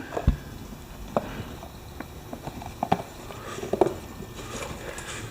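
Scattered light clicks and knocks at irregular intervals, the sound of things being handled.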